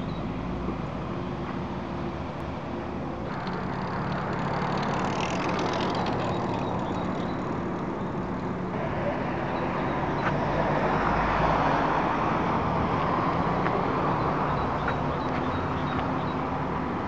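A vehicle engine idling with a steady low hum, under outdoor street noise that swells in the middle and second half.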